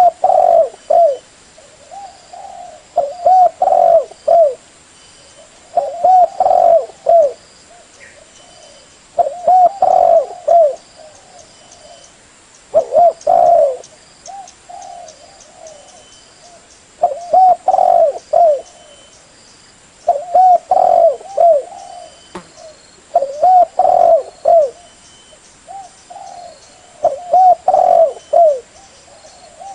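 Spotted dove cooing: a phrase of several coos, repeated every three to four seconds.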